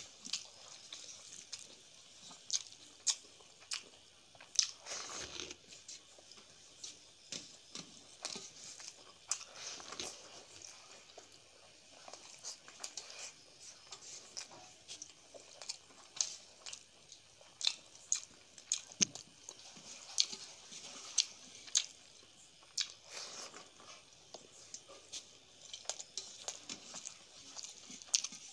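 Close-up eating sounds: a person chewing mouthfuls of rice and chicken curry eaten by hand, with many small, irregular wet clicks, and fingers working the rice on a steel plate.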